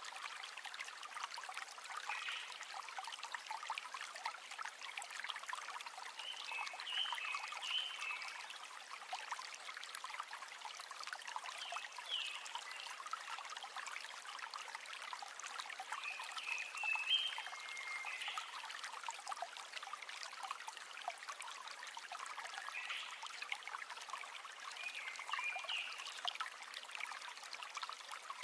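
River water flowing and trickling, a steady rush with fine splashing. A short high chirp sounds every few seconds.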